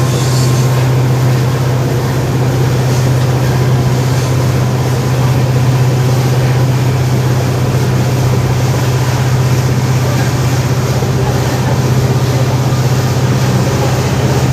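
Steady low hum of a WDP4D diesel locomotive's EMD two-stroke engine working under way, over the even running noise of the train.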